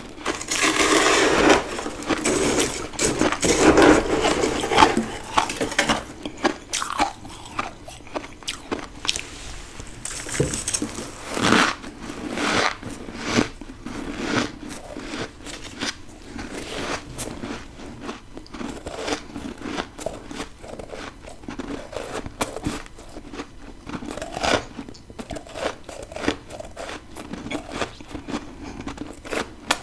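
Close-miked biting and chewing of freezer frost: a dense run of loud crunchy bites for the first several seconds, then quieter crunching and chewing with scattered sharper crunches.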